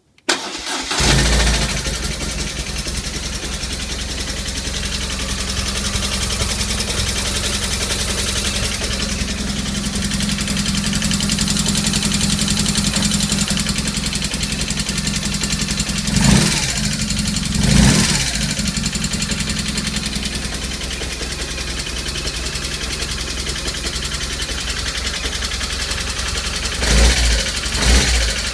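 BMW R1200S air/oil-cooled boxer twin starting and idling, with the throttle blipped briefly twice around the middle and twice near the end. It has a clicking that the owner is unsure is normal after a valve adjustment.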